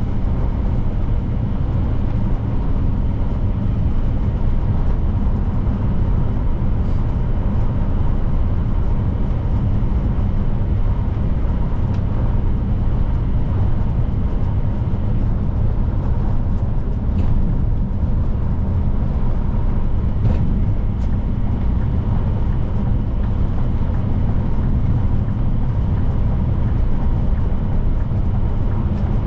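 Scania P310 truck cruising at steady highway speed: continuous deep engine drone and road noise, with no change in pace.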